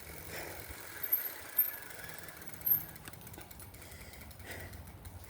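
Bicycle being ridden: a steady low rumble with a few sharp knocks, then a run of fast clicking rattles in the second half.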